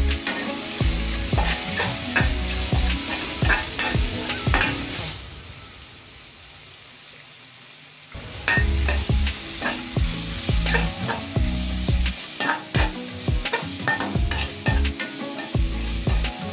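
Chopped onions and tomatoes sizzling in hot oil in a kadai, with a spatula stirring and knocking against the pan in quick, irregular strokes. The stirring pauses for about three seconds midway, leaving only a quieter sizzle, then starts again.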